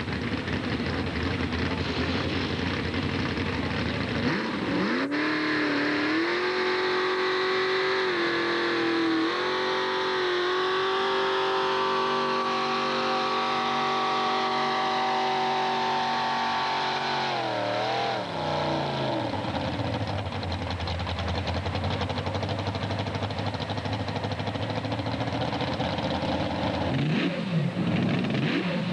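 Modified pulling tractor's engine running hard: it revs up sharply about four seconds in and holds high revs with a few small dips, as on a pull, then drops away after about thirteen seconds. Another engine rev-up comes near the end.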